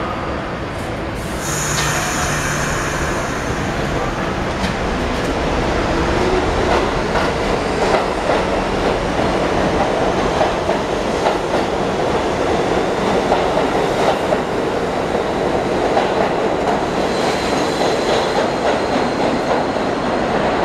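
R68 subway train pulling out of the station and picking up speed, its wheels clacking over the rail joints more and more often. There is a burst of hiss about a second and a half in, and a faint high wheel squeal near the end.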